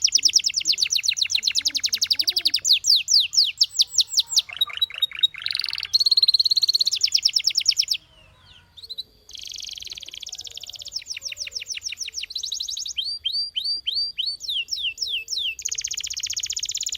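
Canary singing in fast trills: rapid runs of repeated high notes in phrases that change speed and pitch, with a break of about a second a little past the middle.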